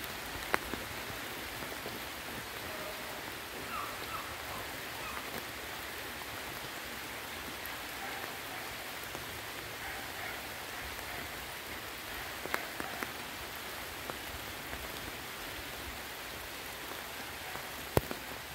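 Steady rain falling hard on a field of leafy crops, an even hiss, with a few sharp ticks near the start, about two-thirds of the way through and near the end.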